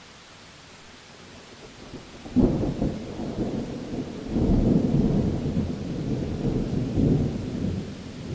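Thunderstorm: a faint steady hiss of rain, then about two seconds in a sudden clap of thunder that rolls into a long low rumble, swelling again about four seconds in.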